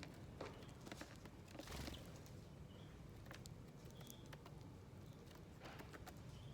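Small birds pecking seeds at a feeding plate: faint, irregular taps and clicks, with a few short high chirps in the middle.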